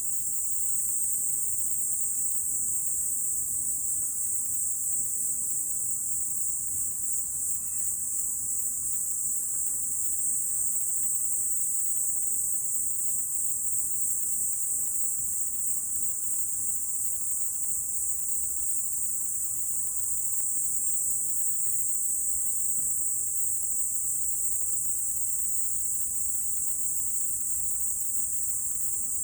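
A chorus of autumn insects, typical of crickets, making a steady high-pitched shimmer that goes on without a break.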